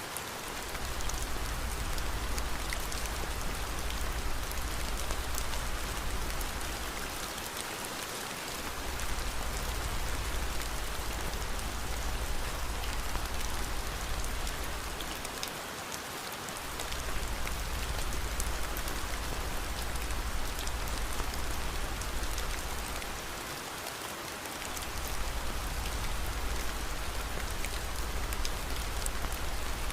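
Steady rain, an even hiss with scattered faint ticks of drops. A low rumble underneath fades out briefly about every eight seconds.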